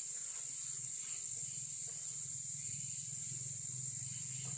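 Insects chirring: a steady, continuous high-pitched buzz with a faint low rapid throb beneath it.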